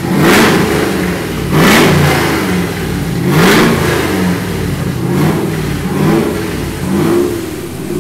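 Supercharged 6.2-litre V8 of a 2011 Berger Camaro SS revved at a standstill with quick blips of the throttle, about six in a row, its pitch rising and falling each time. Its electric exhaust cutouts are open, so the exhaust dumps out the sides after the catalytic converters.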